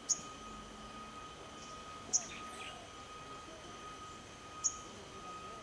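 Sunbird giving short, sharp, high-pitched chirps, three times about two and a half seconds apart, over a steady faint high tone.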